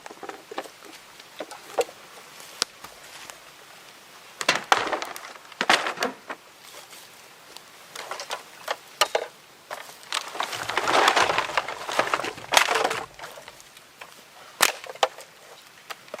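Wood being worked with hand tools: scattered sharp knocks and cracks, with a longer rasping, crunching stretch about eleven seconds in.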